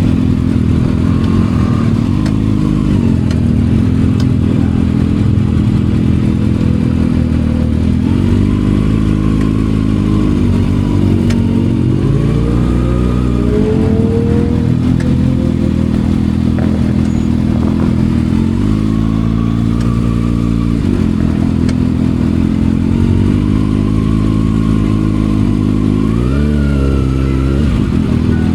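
Kawasaki ZX6R inline-four engine through an M4 aftermarket exhaust, running and revving as the bike rides, its pitch climbing several times and rising sharply near the end.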